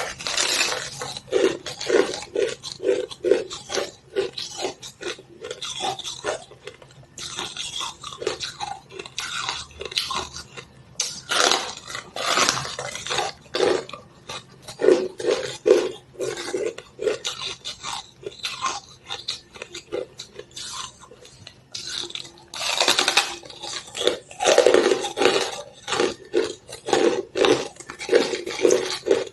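A person chewing crushed ice close to the microphone: crisp crunching in runs of about two chews a second, with brief pauses between runs.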